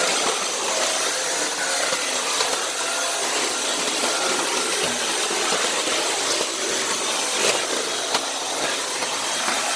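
Dyson Cinetic canister vacuum running steadily, an even rush of air and motor as it vacuums the floor, with a few faint ticks.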